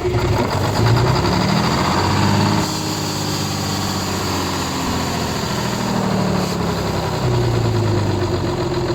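Concrete truck's diesel engine catching and running, revving up about a second in, dropping back to a lower speed, then revving again near the end.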